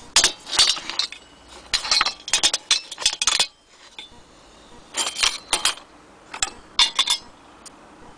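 Metal parts of a vintage brass Primus stove clinking and rattling as they are handled, in four short clusters of sharp clinks with brief pauses between.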